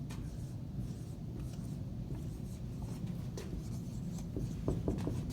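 Someone writing by hand, short scratchy pen or marker strokes on a surface, with a few sharper taps near the end over a steady low room hum.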